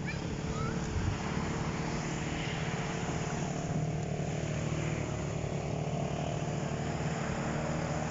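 Motorized bangka's engine running steadily at speed, a constant drone with no change in pitch.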